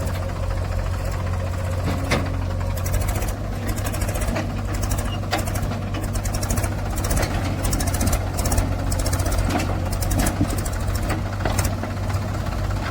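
Heavy diesel engine running steadily with a knocking clatter, with scattered sharp knocks over it.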